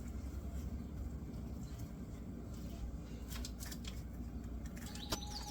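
Quiet low hum with a few faint clicks and rustles of handling. Background music starts just before the end.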